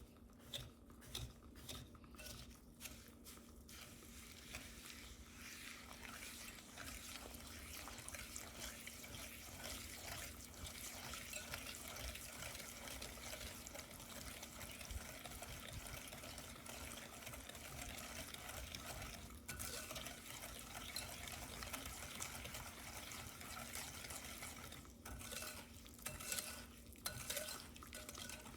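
Stirring ingredients in a mixing bowl, the utensil scraping steadily against the bowl, with separate taps and clinks in the first few seconds and again near the end.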